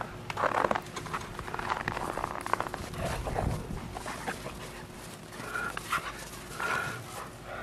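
Dogs playing in snow: panting and scuffling, with two short whine-like sounds near the end.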